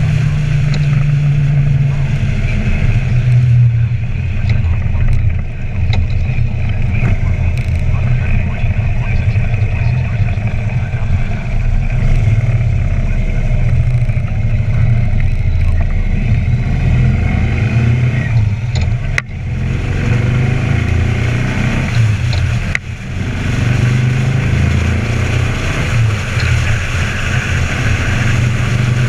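2012 Harley-Davidson Ultra Limited's 103 cubic-inch Twin Cam V-twin, fitted with an Andrews 57H cam and true dual exhaust, running under way; the engine note rises and falls with the throttle, with brief drops about five, nineteen and twenty-three seconds in.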